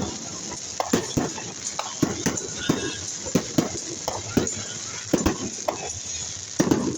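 Fireworks crackling: scattered sharp pops at an uneven pace, a few each second, over a steady background hiss.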